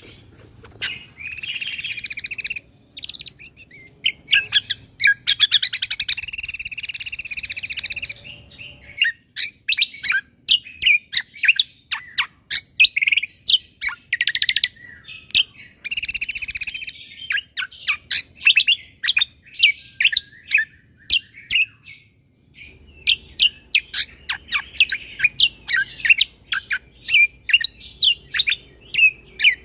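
A cucak kombo (kecial kombo) songbird singing a fast, near-unbroken song of sharp chirps and trills, with a few longer buzzy trilled phrases mixed in. A low background hum comes in about two-thirds of the way through.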